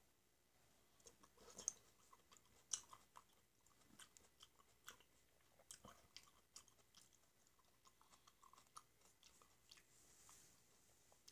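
Faint, close-miked chewing of peeled black grapes: a run of small wet mouth clicks and smacks, with two sharper clicks in the first three seconds.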